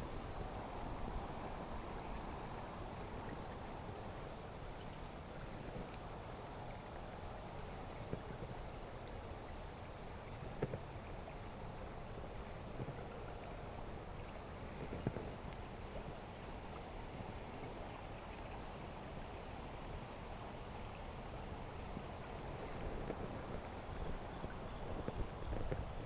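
River ambience: a steady rush with a low rumble beneath, and a high buzzing that swells and fades every few seconds. A couple of faint knocks come through, about ten and fifteen seconds in.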